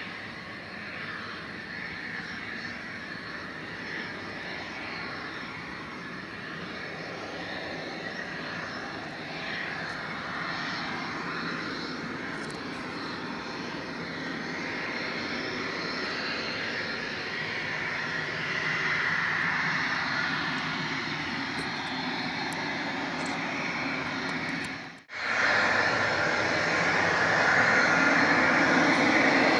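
Embraer Phenom 300's twin Pratt & Whitney PW535 turbofan engines running, a steady jet hiss and whine that grows gradually louder. About 25 seconds in the sound breaks off for a moment, then comes back louder.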